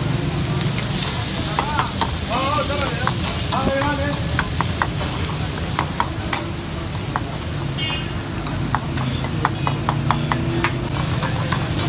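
Qeema karahi sizzling in small karahi woks over charcoal, while a metal ladle stirs and scrapes, clinking sharply against the pans. The clinks come thick and fast, more of them in the second half.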